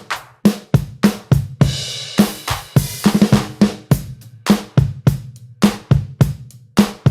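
Drum kit playing a steady beat, about three strikes a second, over a low bass line, with a cymbal crash about two seconds in.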